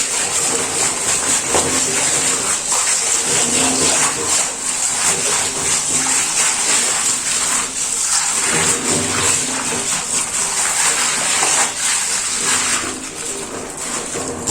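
Water running and splashing as aquarium stones are rinsed by hand to wash the dirt off them.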